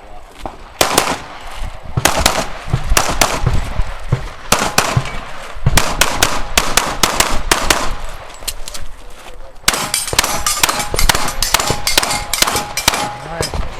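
Several pistols firing in rapid strings on a shooting range, shots from more than one shooter overlapping. The firing starts about a second in and thins out briefly past the middle before picking up again.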